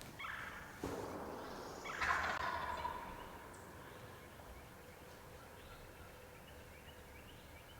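Wild turkey gobbling, two rattling gobbles in the first three seconds, then quiet with faint small bird calls.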